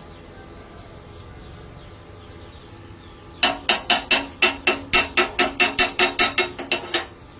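A hammer striking metal in a fast run of about fifteen blows, roughly four to five a second, each ringing. The blows start about three and a half seconds in and stop shortly before the end.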